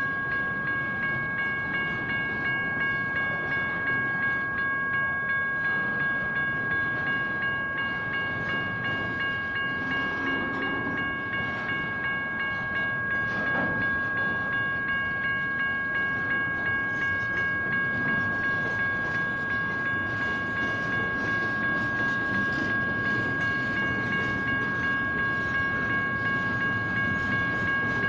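General Signals Type 1 electronic crossing bells ringing in a steady, repeating ding over the rumble and wheel-on-rail noise of a passing train.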